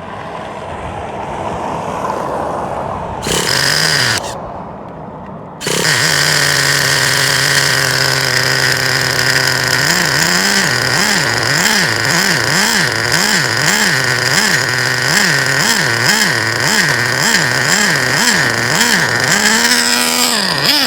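Traxxas Revo's 3.3 nitro engine being started: a rising whirr, a brief catch, then it fires about five and a half seconds in and settles to a steady idle. From about ten seconds it revs up and down over and over, roughly one and a half times a second, then drops back toward idle near the end.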